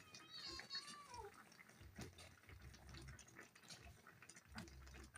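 A cat meowing once, a single drawn-out call that falls in pitch at its end. After it come only faint scattered clicks.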